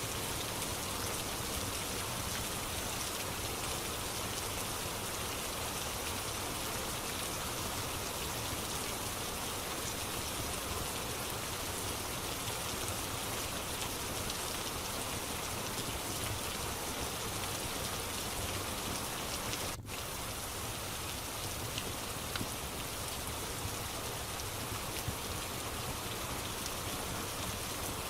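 Steady rain ambience with a few faint crackles of a fireplace mixed in. The level dips for an instant about twenty seconds in.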